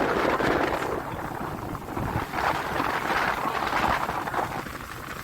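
Wind buffeting the microphone aboard a small motorboat, an uneven rushing noise that swells and fades, with boat and water noise beneath.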